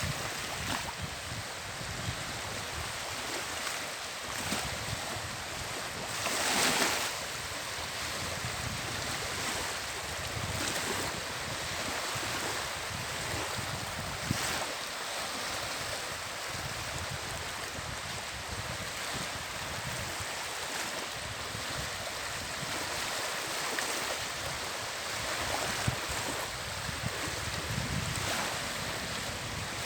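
Sea waves washing on the shore of the Gulf of Riga, with wind blowing on the microphone and rumbling in gusts; a louder surge about seven seconds in.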